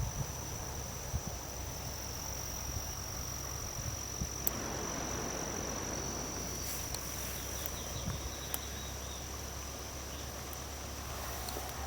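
Insects making a steady, high-pitched drone that holds one pitch throughout, over a faint low rumble.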